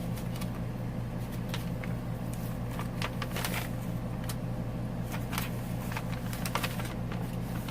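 Paper pages and tags of a handmade junk journal being handled and turned: scattered soft rustles and light clicks, over a steady low hum.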